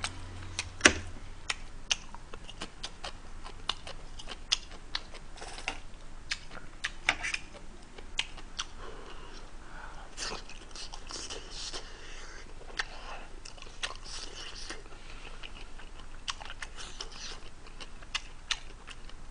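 Close-miked chewing and lip-smacking on a mouthful of tteokbokki and chicken: many irregular sharp wet clicks, busier for a few seconds around the middle.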